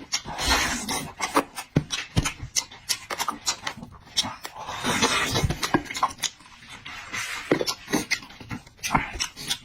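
A person eating close to the microphone: wet chewing and mouth smacking, with many short irregular clicks and brief noisy smears.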